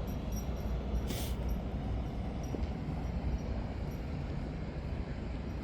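Steady low outdoor background rumble, with a short hiss about a second in.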